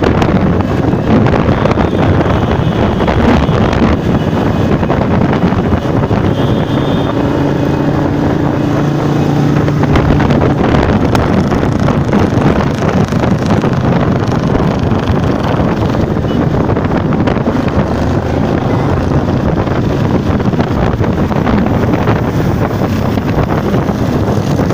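Motorcycle engines running as parade bikes pass, with a steady engine tone standing out from about seven to ten seconds in, under heavy wind noise on the microphone.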